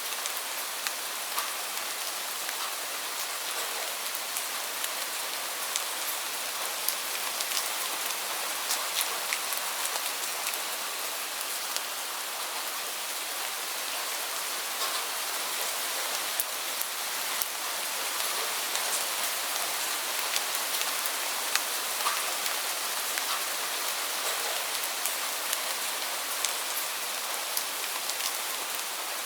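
Steady heavy rainfall: a dense, even hiss of rain, with many individual drops ticking sharply on a surface throughout.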